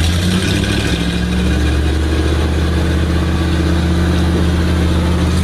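Vintage truck engine running steadily at low, even revs.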